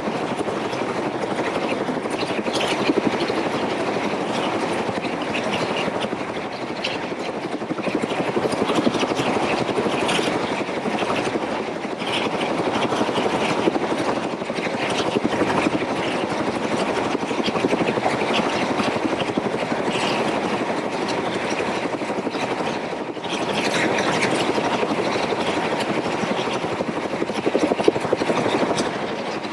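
Helicopter in flight: a steady rush of rotor and engine noise, dipping briefly about 23 seconds in.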